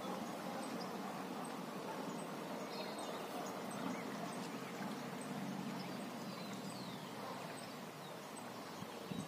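Steady outdoor background noise with a few faint, short bird chirps, and a soft knock right at the end.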